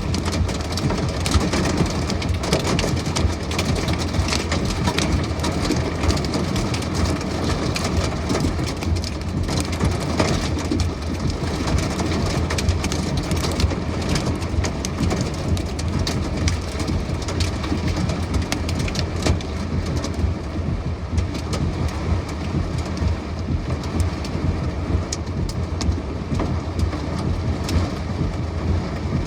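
Heavy thunderstorm rain pelting down steadily, with many sharp individual taps of drops striking a surface, over a continuous low rumble.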